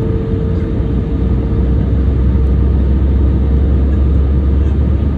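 Steady jet airliner cabin noise, a continuous deep rumble with a faint steady hum that fades out near the end.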